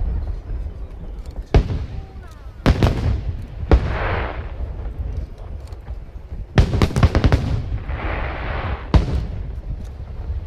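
Aerial fireworks shells bursting overhead in a string of sharp bangs, with a quick run of several bursts about two-thirds of the way in. A hissing spray of noise follows some of the bursts.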